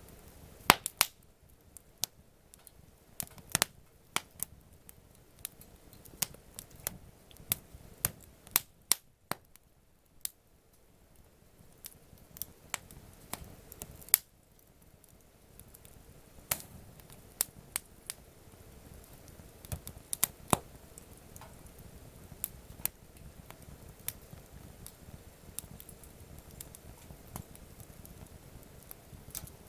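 Wood campfire crackling: irregular sharp pops and snaps over a faint low hiss, with a quieter lull around ten seconds in.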